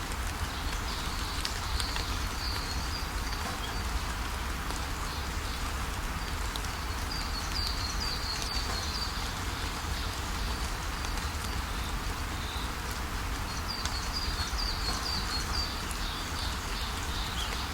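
Steady rain falling, with a bird singing three short runs of quick, high chirps: one a couple of seconds in, one about halfway, and one near the end.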